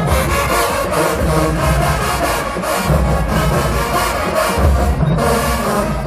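HBCU marching band playing loud in the stands: brass section over heavy bass drums, in blocks of low drum hits about every second.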